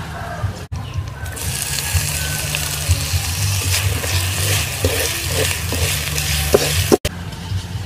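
Shrimp paste and chopped red onion sizzling in a hot metal wok, starting about a second in, while a metal spoon stirs and scrapes against the pan.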